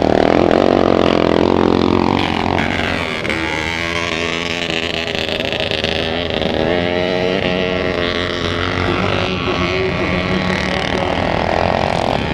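Motocross motorcycle engines revving on the track, the pitch rising and falling as the throttle opens and closes. They are loudest in the first two seconds, where one engine's pitch falls away.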